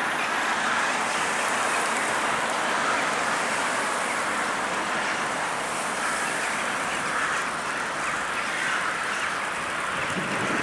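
A large flock of birds gathering to roost, many calling at once and blending into a dense, steady chatter.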